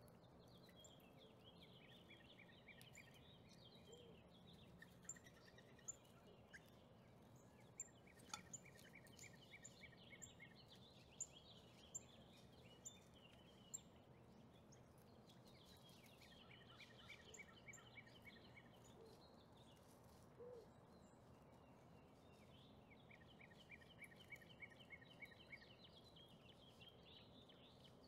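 Near silence with faint bird song in the background: a rapid string of short high notes repeated every several seconds. A few light clicks come from the plastic camera body pieces being handled and pressed into place.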